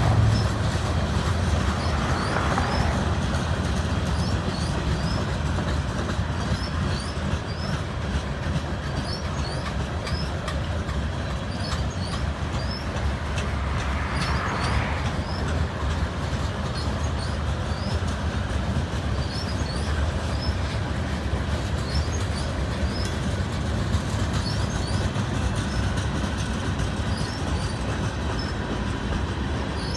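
CN freight train cars rolling past with a steady rumble and rattle of wheels on the rails.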